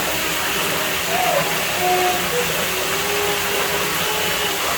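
Steady rushing of running water at a pool villa, with faint distant voices underneath.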